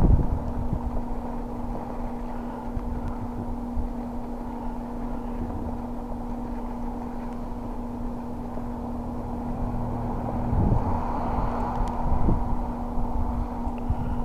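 A vehicle engine running with a steady hum, with low rumble from wind on the microphone; the rumble grows louder about ten seconds in.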